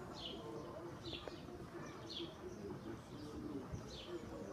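A small bird chirping outdoors in short, high, falling notes about once a second, over a steady low background murmur.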